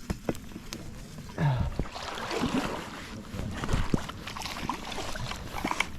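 Water sloshing and splashing with scattered knocks and clicks, irregular and unsteady, picking up about a second and a half in.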